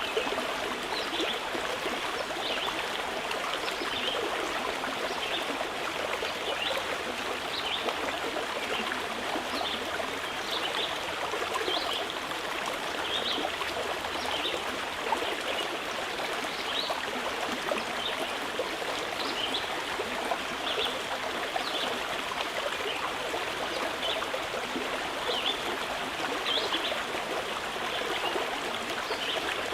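Mountain stream running steadily over rocks, a continuous rushing, trickling flow. Short high notes come through every second or two.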